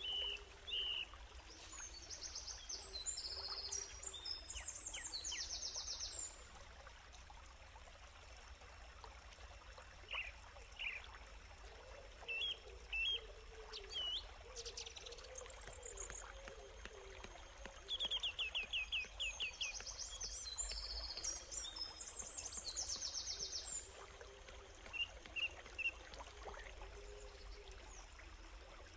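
Wild birds calling: two bouts of fast, high, repeated trills, each a few seconds long, with scattered short chirps between them, over a faint steady rushing background.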